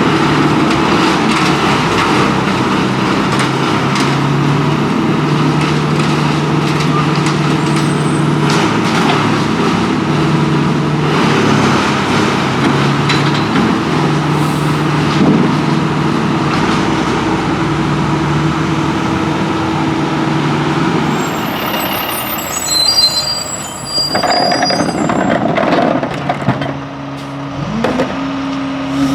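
International garbage truck with a New Way Viper body running, its engine drone stepping up and down in speed as the truck works. Near the end come several high squeaks.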